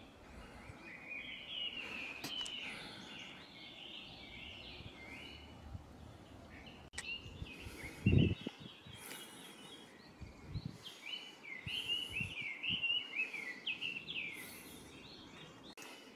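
A songbird singing long runs of quick, warbling notes, once early and again in the second half, over faint outdoor background noise. A single low thump about eight seconds in is the loudest sound, followed by a few softer thumps.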